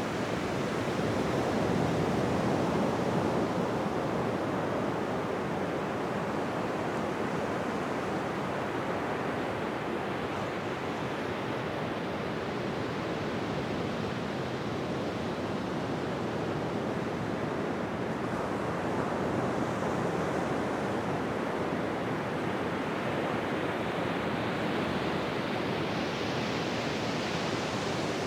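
Ocean surf washing continuously onto a beach, swelling gently as waves break, about two seconds in and again about nineteen seconds in.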